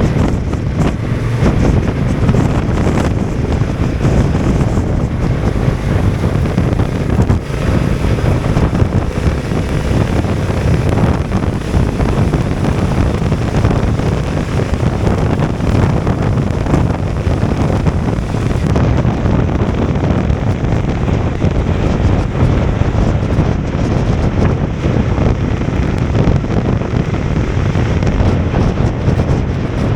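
Steady, loud wind rushing and buffeting over the microphone of a Honda NT1100 motorcycle being ridden at speed through strong wind and rain, with the bike's running noise underneath.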